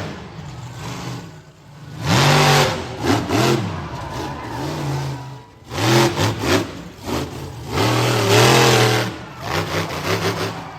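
Monster truck engine revving hard in repeated bursts of throttle, its pitch rising and falling, with brief drops between the bursts.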